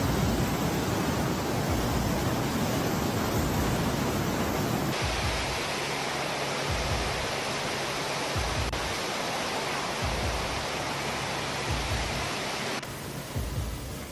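Steady rushing of floodwater, changing abruptly in tone about five seconds in and again near the end.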